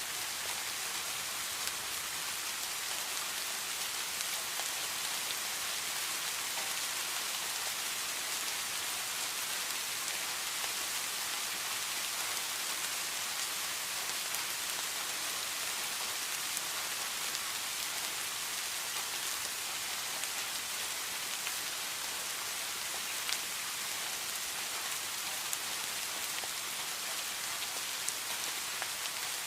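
Heavy rain falling steadily in an even hiss, with scattered individual drops ticking sharply on a surface.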